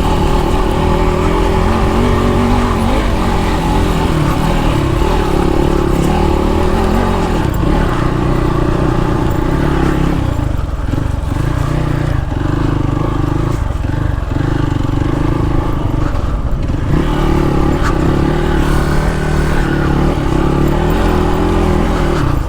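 Off-road motorcycle engine running continuously under changing throttle, its pitch repeatedly stepping up and dropping back.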